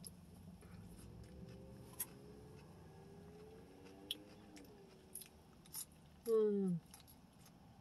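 Quiet chewing and crunching of food with a few light utensil clicks. Near the end comes a short, louder falling 'mm' from the eater's voice.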